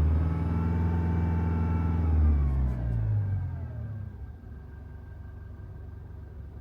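Toyota HiAce van engine running with a loud low drone. About two and a half seconds in its pitch falls and the sound drops away, leaving a quieter steady hum.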